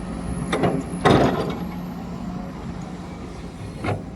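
Machinery running with a steady low hum, broken by three short noisy bursts, the loudest about a second in.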